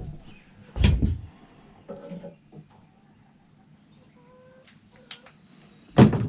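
Two heavy thumps, one about a second in and one near the end, with a few faint short squeaks between them.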